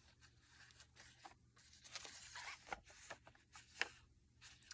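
Faint rustling of paper journal pages being handled and turned, with a few soft clicks and scrapes.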